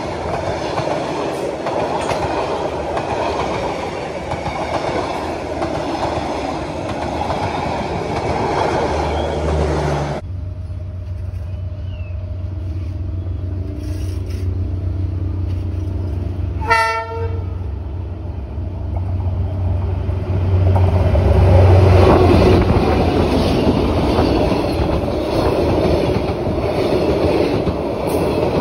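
A passenger train's coaches running past close by, wheels loud on the rails. After a cut, a diesel train's low engine drone approaches, a short horn blast sounds a little past halfway, and then the train passes close by with a loud rush of wheels on rail.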